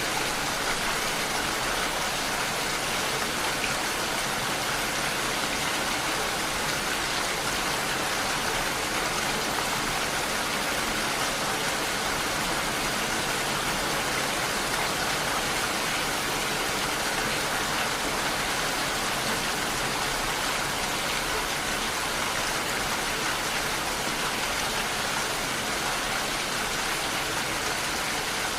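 Steady rainfall: a dense, even hiss of falling drops that holds at one level without let-up.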